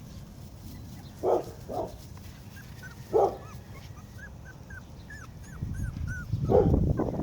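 Young puppies yipping and whimpering in short separate cries, with a run of quick high chirps from about four seconds in and a low rumble near the end.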